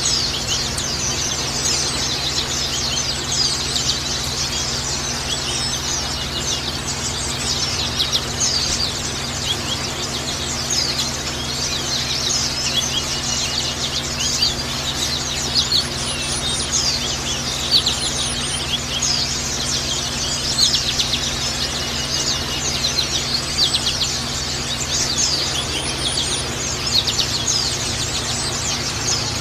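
A flock of white-eyes (pleci, Zosterops) calling together in a dense, continuous chatter of short, high, overlapping chirps and trills, over a faint steady low hum.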